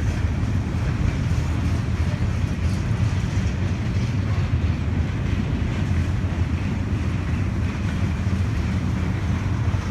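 A train passing: a steady low rumble that holds even throughout.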